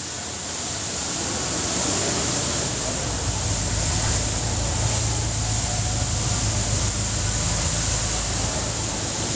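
Lamborghini Aventador LP700-4's V12 engine idling steadily, a low even hum that grows louder over the first couple of seconds, under a hiss of background noise.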